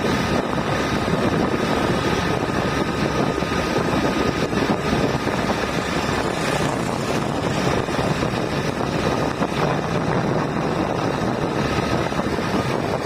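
Motorcycle riding along: the engine runs steadily under a heavy, even rush of wind noise on the microphone.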